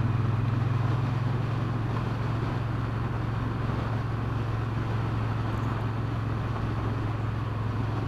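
Triumph Bonneville T120's parallel-twin engine running at a steady cruise with a constant low drone, under wind rush, heard from the moving bike. The engine note eases slightly over the stretch.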